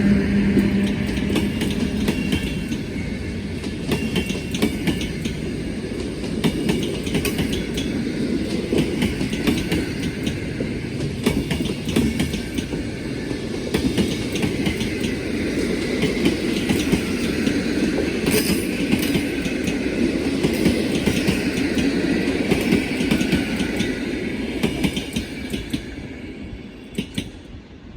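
Passenger coaches of an intercity train hauled by an EU07 electric locomotive rolling past with a steady rumble, the wheels clicking over rail joints, fading away over the last few seconds.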